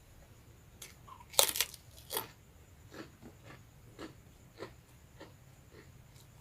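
A close bite into crispy rambak (cow-skin crackers): two loud crunches about a second and a half in, then softer chewing crunches about twice a second.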